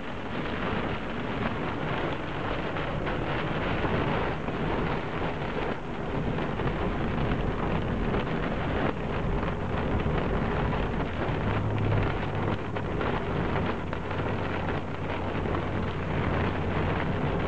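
Heavy rain mixed with hail pelting down in a dense, steady hiss. A low steady hum joins about two-thirds of the way through.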